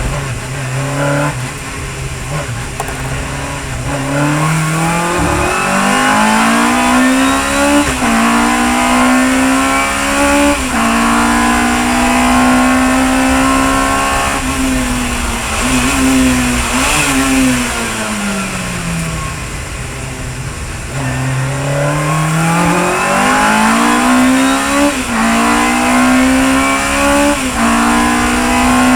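Chevron B19 sports racing car's engine pulling hard through the gears, its pitch climbing and dropping back at each upshift. Midway it slows, the pitch falling for several seconds, then it accelerates again through two or three more upshifts.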